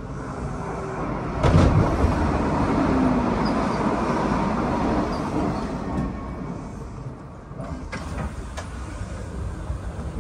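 Electric train noise at a station: a sudden loud rush about one and a half seconds in that holds for a few seconds and then fades, with a few sharp clicks near the end.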